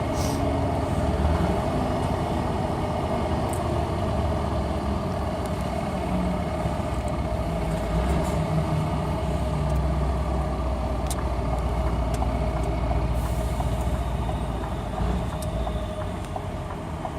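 Scania R500 V8 diesel with an open, straight-through exhaust pipe running steadily at low revs, a deep continuous engine note that eases off slightly near the end.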